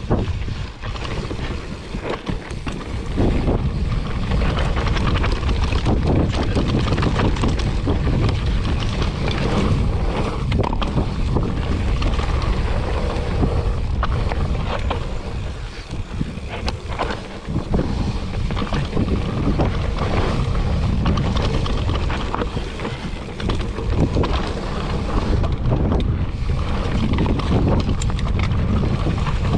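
Wind buffeting the microphone of a camera riding on a mountain bike as it descends a dirt trail, with tyre rumble and frequent short clicks and rattles from the bike over bumps. It eases off briefly a few times.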